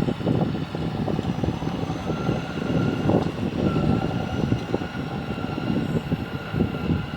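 John Deere tractor's engine running steadily under load while plowing: a continuous rough rumble with a faint steady whine above it.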